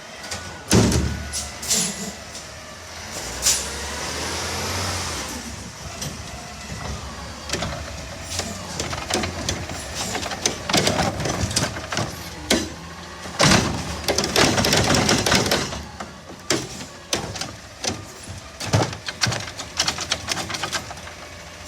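Autocar garbage truck with a Heil body working a pickup: a loud bang about a second in, a whine that rises and falls around four seconds, then many clattering knocks and bangs as bins are emptied and slammed into the hopper, with a long hiss in the middle.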